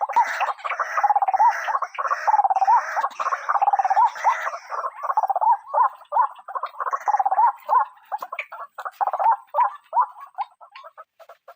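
White-breasted waterhen (ruak-ruak) giving its harsh, croaking call over and over: a dense, continuous chorus of notes at first, breaking into separate, more spaced-out calls about halfway through.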